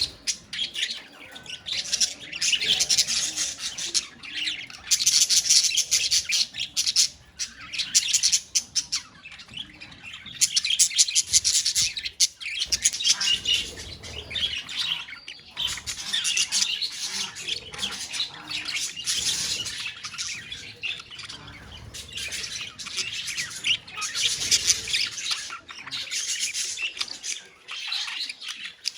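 A colony of budgerigars chattering continuously, many birds warbling, chirping and squawking at once, rising and falling in waves.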